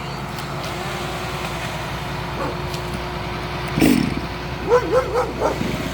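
An engine idling steadily. About four seconds in a dog gives a short bark, then several brief whining yelps.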